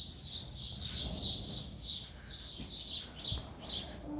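A small bird chirping over and over, about four short high chirps a second.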